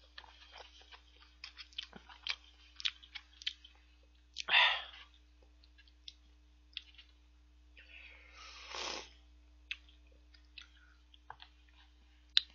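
A person chewing noodles with many small wet mouth clicks. There is a short loud breathy noise about four and a half seconds in and a longer, softer one near nine seconds.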